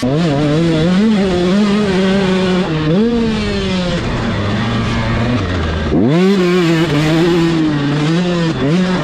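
Two-stroke 85cc/Super Mini motocross bikes racing, engines revving up and down through the gears. The pitch drops low near the middle, then revs sharply back up about six seconds in.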